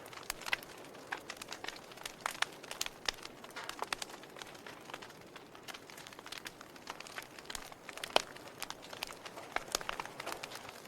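Log fire crackling: irregular sharp pops and snaps over a soft steady hiss, with one louder pop about eight seconds in.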